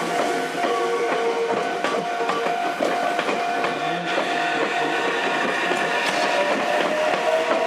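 Meitetsu electric commuter trains standing at the platforms with their electrical equipment running: several steady whines and hums with scattered clicks, and one whine that rises in pitch near the end.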